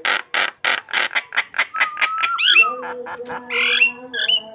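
A starling (jalak) singing. First comes a fast run of harsh chattering notes, about five a second, then a whistled glide and a string of short hooked chirps over a steady lower tone.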